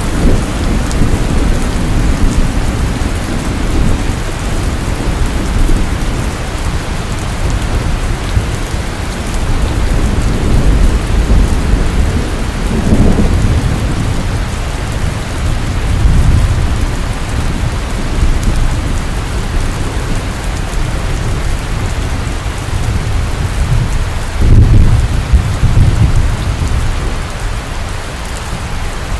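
Steady heavy rain falling, with low rolling rumbles of thunder beneath it that swell about halfway through and again near the end.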